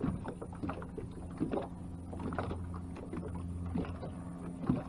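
Ambient sound aboard a fishing boat: a steady low hum with scattered light knocks and taps.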